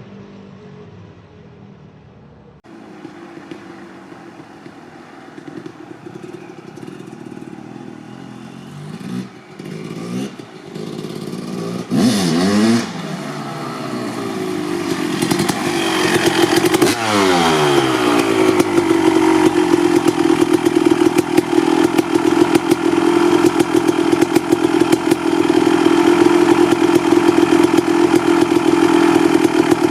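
Honda CR250R single-cylinder two-stroke motocross engine warming up after a cold start. It runs quieter at first, is revved up and down a few times, then holds a loud, steady fast-idle with a rapid popping beat.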